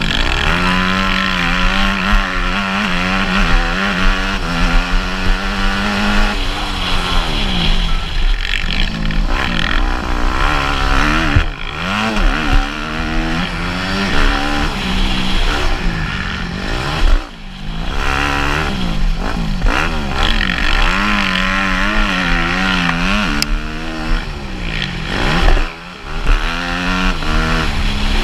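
Motocross bike engine being ridden hard, its pitch repeatedly climbing and falling as the throttle is opened and shut, with two brief sudden drops in loudness where the throttle is chopped.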